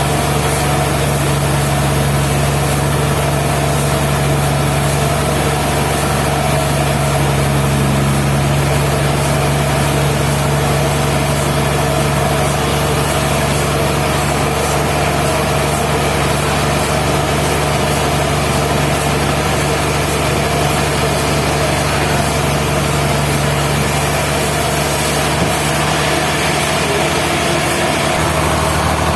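Sawmill machinery running steadily with a constant low hum and a broad mechanical noise, and no pauses.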